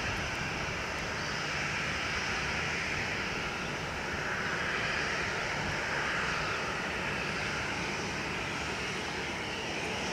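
Boeing 737-800's CFM56-7B jet engines running with a steady roar, swelling slightly about halfway through.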